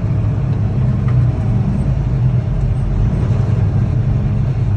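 Steady engine and road noise of a vehicle driving on the highway, a constant low drone.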